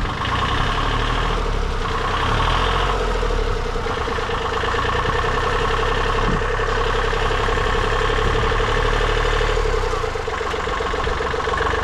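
Tractor engine running steadily with a constant, even drone.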